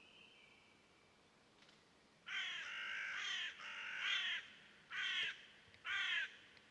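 A bird calling four times, starting about two seconds in: two longer calls, then two short ones.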